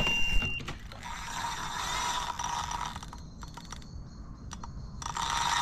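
A carp reel letting line go with a continuous ratcheting tick as a fish runs with the bait, the sign of a take. A steady electronic bite-alarm tone stops about half a second in.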